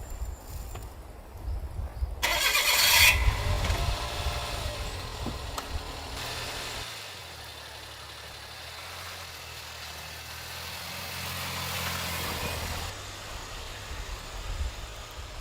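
An engine running steadily for several seconds, with gusty low rumbling around it and a short loud hiss near the start.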